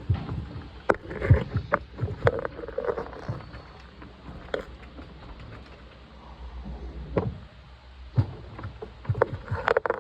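Washing machine running, its water sloshing, with irregular knocks and clatters and a low rumble; it is quieter for a couple of seconds in the middle.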